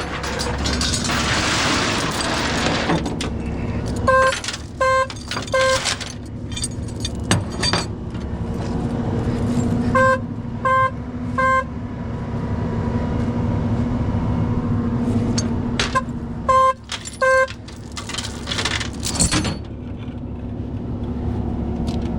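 A crashed car's horn going off on its own in short, sharp beeps, three at a time, with pauses of several seconds between the groups: a horn fault left by the collision with the pole.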